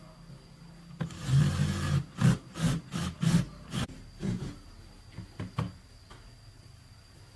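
Hand tool work on a part: one scrape lasting about a second, then a run of about ten short scraping strokes that come more sparsely toward the end.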